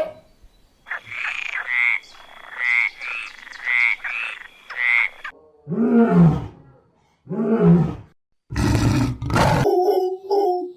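A series of different animal calls in turn: a run of about seven short high calls, then two low drawn-out calls that rise and fall, then two loud harsh bursts, then a string of quick short notes near the end.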